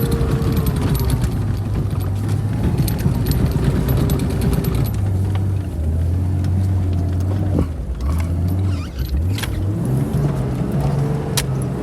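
Vehicle engine running under load while driving up a hill, its speed dropping about five seconds in and climbing again near nine seconds, with scattered rattles and clicks from the vehicle.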